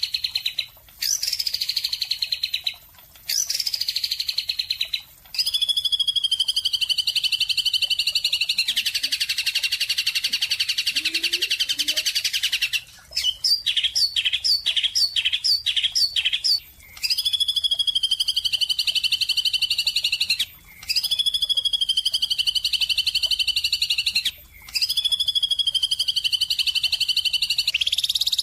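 A songbird singing in trilled phrases a few seconds long, separated by short pauses. The first phrases are quick falling sweeps, followed by a long steady trill, then a run of rapid repeated notes, then further steady trills.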